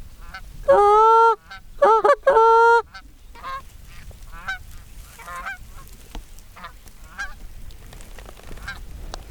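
Canada geese honking: two very loud, drawn-out honks about a second and two seconds in, then a run of fainter, short honks and clucks from the flock as it circles in to land.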